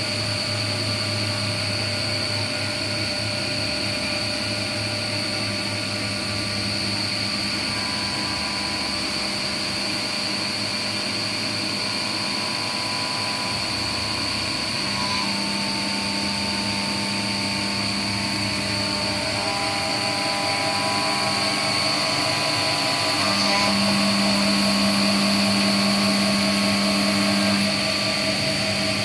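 Fadal VMC 10 CNC milling machine running: the spindle at speed with a steady high whine, under lower motor hums that start, stop and shift pitch several times as the machine works through the program.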